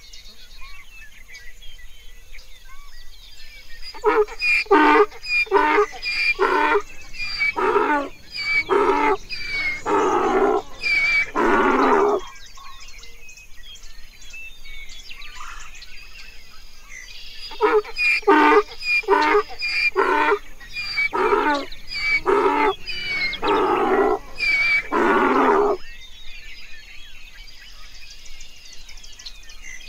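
A donkey braying twice: each bray is a run of quick, alternating hee-haw calls that grow longer toward the end, the first about four seconds in and the second about eighteen seconds in. Birds chirp faintly in the background.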